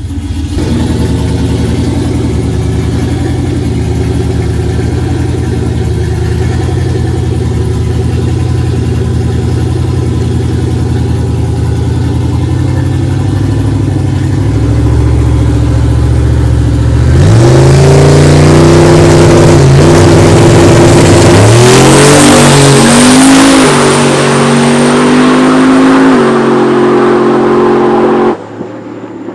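Turbocharged street truck engine running steadily at the start line, growing louder, then launching hard about 17 seconds in. The revs climb and drop back at two gear shifts, with a thin high whine over the top later in the pass, and the sound cuts off sharply near the end.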